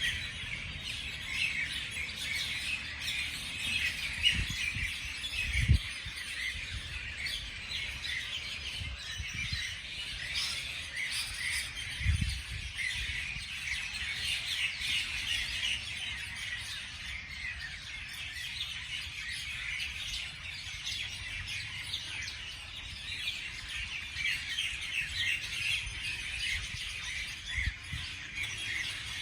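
Many small birds chirping and calling together in a dense, continuous chorus. Low wind-like rumble underneath, with two brief low thumps, one about six seconds in and one about twelve seconds in.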